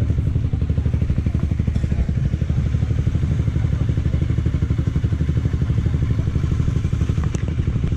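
Kawasaki Versys 650's parallel-twin engine idling with an even, rapid pulse while the bike rolls slowly in to park.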